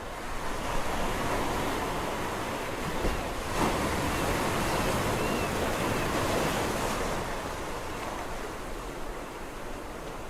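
Sea waves breaking: the surf swells about a second in, is loudest around the middle and dies away toward the end.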